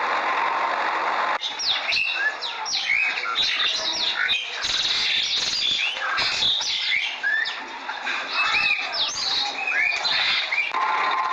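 Many birds chirping in quick, overlapping short calls. A steady engine-like hum cuts off about a second and a half in and comes back near the end.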